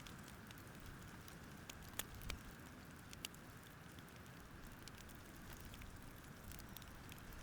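Faint crackling of a wood campfire: a soft hiss with scattered sharp pops, a few louder ones about two to three seconds in.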